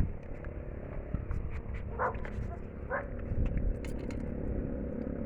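Two short animal calls about a second apart, over a steady low rumble.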